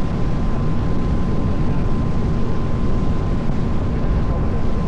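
A small tour boat's engine running steadily under way, a continuous low rumble with a thin steady whine above it, mixed with wind on the microphone.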